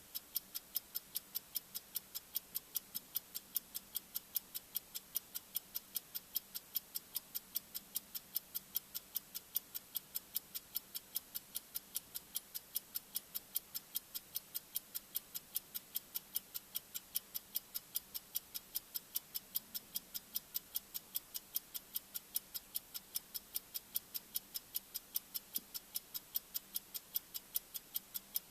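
Bomb-timer ticking sound effect: sharp, high-pitched ticks at a steady, fast pace of about three a second, over a faint steady hum.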